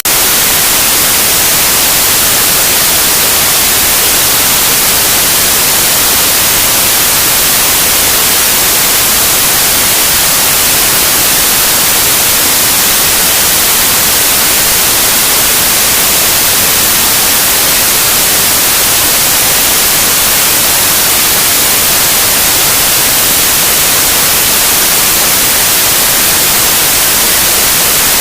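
Loud, steady white noise: an even hiss across the whole range, brightest in the high end, with no change throughout.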